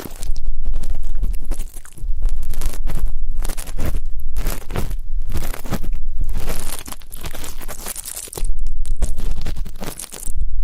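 ASMR ear cleaning: a tool scratching and rubbing in a microphone's ear, giving loud crunchy crackling strokes of about a second and a half, one after another, with a low rumble of handling under each.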